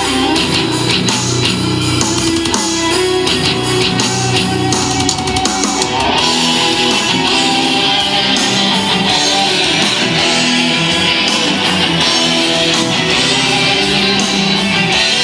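Rock music with guitar and drums playing from a motorcycle's aftermarket stereo (Polk Audio speakers driven by a Rockford Fosgate amplifier), picked up by a GoPro Hero3 microphone. The music gets brighter and fuller about six seconds in.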